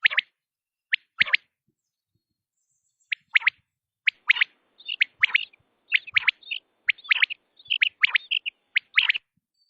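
Quail calling: short, sharp notes in twos and threes, sparse at first and coming quickly one after another from about halfway through.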